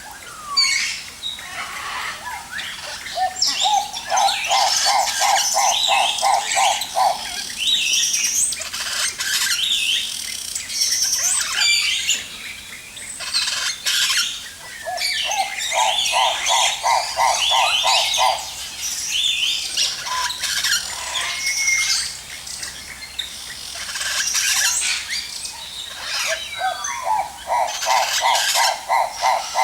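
Many aviary birds chirping and calling at once. Three times, about every twelve seconds, a lower call of about a dozen evenly spaced notes runs through the chatter, each series rising slightly in pitch.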